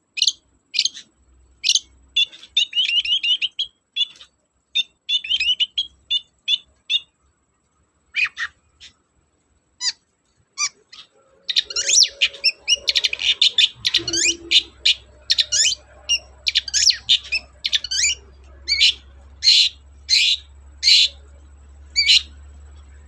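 Long-tailed shrike (cendet) singing a rapid series of short chirps and harsh notes. The calls come scattered at first, then crowd into a dense, loud run from about halfway.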